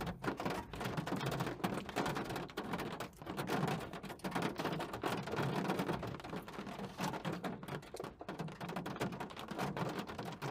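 Thunderstorm rain pelting a window, a dense, uneven patter of drops striking the glass.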